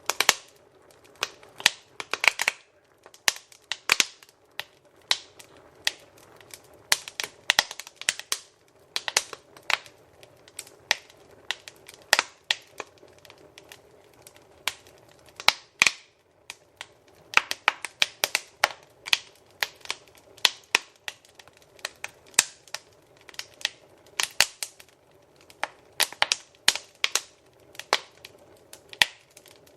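Wood fire crackling in a fireplace: irregular sharp pops and snaps, sometimes several a second and sometimes a second or two apart, over a soft steady rush of the flames.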